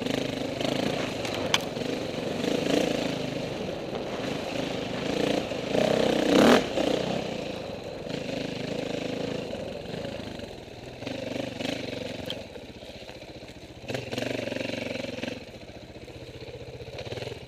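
Dirt bike engine revving up and down in short bursts of throttle, loudest about six seconds in.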